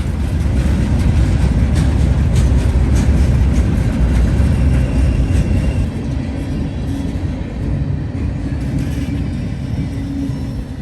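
Freight train passing close by, a loud steady rumble with a run of sharp clicks in the first few seconds, easing off slightly near the end.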